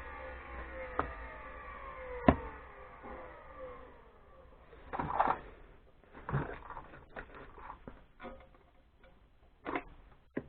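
HBM 20 mm drill grinder's electric motor and grinding wheel winding down after being switched off, the hum falling steadily in pitch over about four seconds, with two sharp clicks, the second a loud knock. Then scattered clicks, knocks and rustling as the machine is handled.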